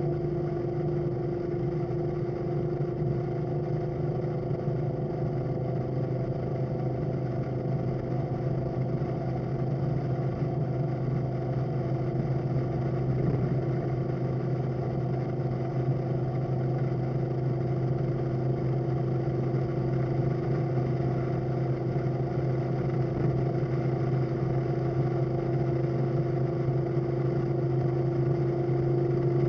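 Suburban's carbureted engine running steadily on the road, a constant engine drone with road noise underneath.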